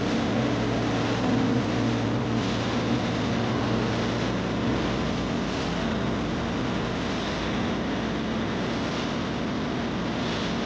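A steady low hum under an even rushing noise, unbroken throughout, with the lowest part of the hum dropping away about halfway through.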